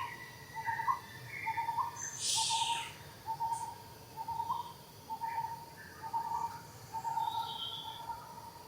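A series of short animal calls, each held on nearly one pitch, coming about twice a second, with a brief hiss about two seconds in.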